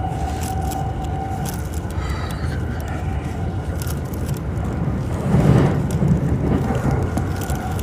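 Electric rapid train running, heard from inside the carriage: a steady low rumble with occasional clicks, and a steady motor whine that fades out about a second and a half in. A louder rumble swells briefly about five seconds in.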